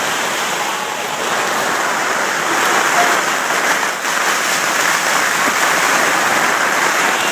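Heavy rain falling hard, a dense steady hiss of downpour that swells a little about a second in.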